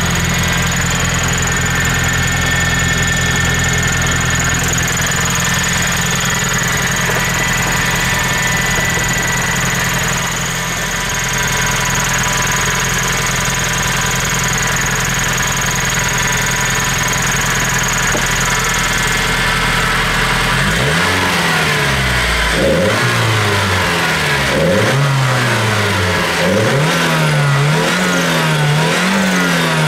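Nissan FJ20ET 2.0-litre turbocharged inline-four running at a steady idle, then, about two-thirds of the way through, blipped again and again, the revs rising and falling about every two seconds, four or five times.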